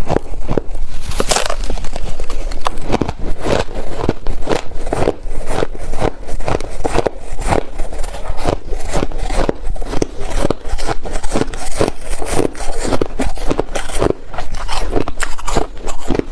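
Ice being bitten and chewed: a loud, fast, irregular run of crisp crunches, several a second.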